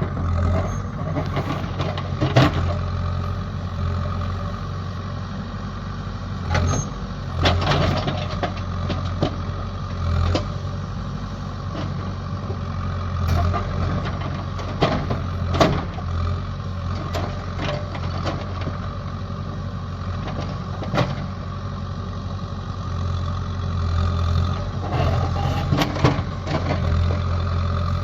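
Heavy vehicle engine running steadily, with irregular knocks and clanks throughout.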